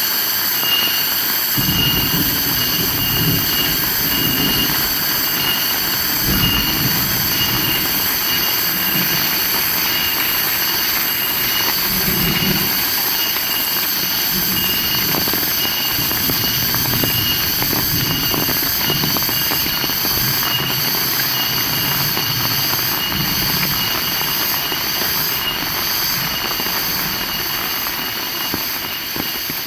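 Heavy rain falling steadily, a dense even hiss, with low rumbling swells coming and going from about a second and a half in. A faint high chirp repeats about once a second throughout.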